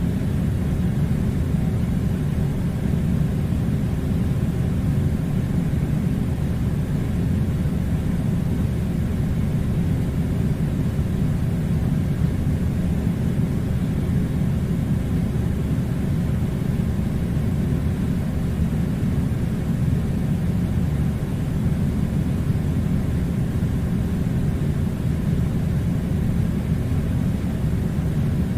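Air conditioner running with a steady low rumbling noise that does not change.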